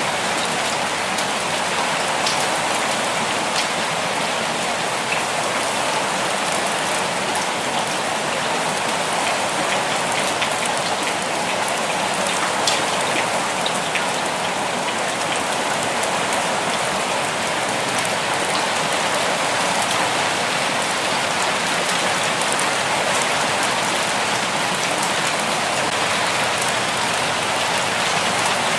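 Steady rainfall, an even hiss with individual drops ticking on a surface now and then.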